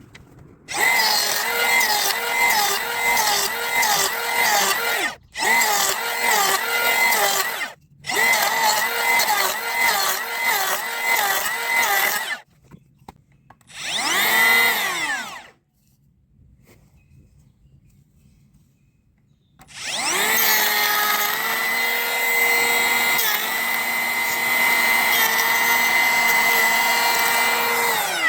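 Makita XGT 40-volt cordless hand planer (GPK01) planing a pressure-treated 4x4. There are three runs in a row with a whine that dips in pitch and recovers again and again as the blades bite. Then a short burst rises and falls, a few seconds are nearly quiet, and a long steady run of the planer comes near the end.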